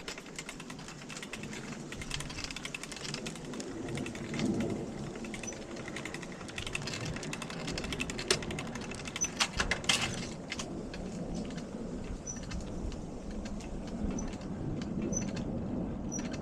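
Bicycle ride noise: a steady rumble with rapid clicks and rattles from the moving bike, and a louder clatter about ten seconds in.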